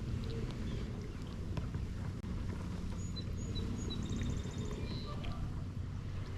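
Steady low rumble of wind and water around a fishing kayak on open water, with a small bird calling a few short high chirps and a quick trill in the middle.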